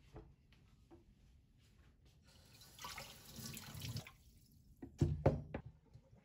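A sink tap runs briefly for about two seconds, then a few sharp knocks follow near the end.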